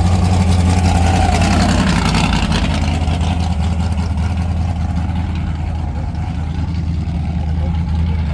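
Truck engine running with a steady deep exhaust rumble, loudest in the first couple of seconds and then easing off a little as it moves away.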